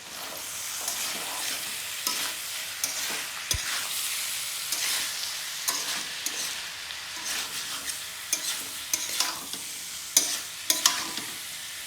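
Smoked pork, potato and tomato curry sizzling in a pan while it is stirred, with irregular scrapes of the stirring utensil against the pan.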